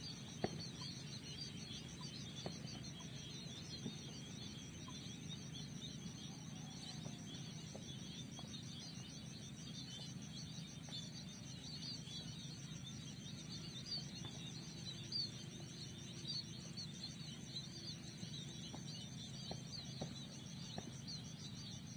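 A flock of munias (burung pipit) chirping rapidly and continuously, many short overlapping calls. Under them runs a steady, fast-pulsing high trill and a low steady rumble.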